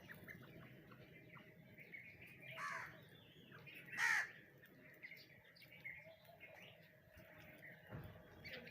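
Two harsh, caw-like calls about a second and a half apart, the second louder, over faint scattered chirping, with a dull low thump near the end.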